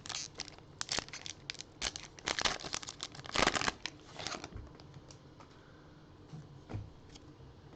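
A trading card pack's wrapper is torn open and crinkled in quick crackling bursts for about four seconds. It goes quieter after that, with a couple of faint clicks near the end.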